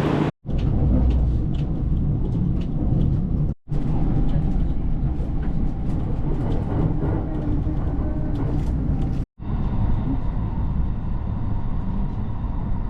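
Steady low rumble of a train in motion, with faint clicks and ticks over it, cut off abruptly to silence three times.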